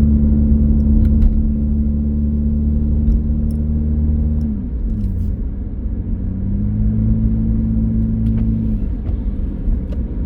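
Car engine and road noise while driving: a steady engine note that drops about four and a half seconds in, climbs back and holds, then drops again near the end, as the car slows and speeds up.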